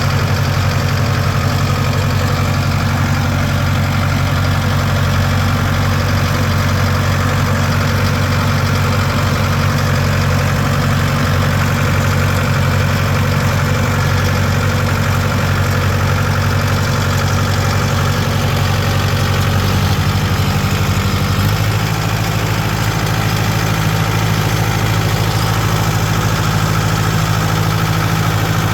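Tractor engine running steadily at low speed, its pitch shifting slightly about twenty seconds in.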